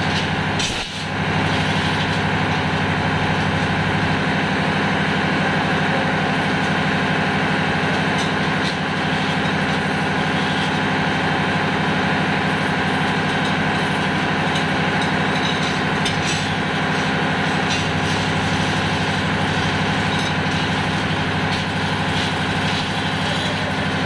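Ship's engine-room machinery running steadily: a loud, even drone with constant hum tones. A short knock about a second in.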